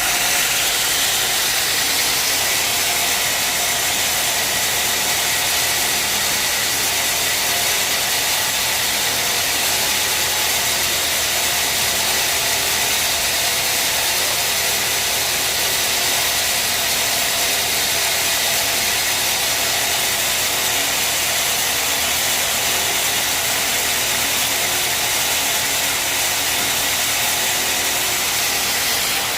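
Sawmill machinery running steadily: an even, continuous high hiss over a low machine hum, with no breaks or changes.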